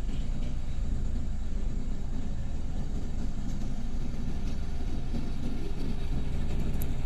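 Diesel engine of heavy road-construction machinery running steadily with a low rumble.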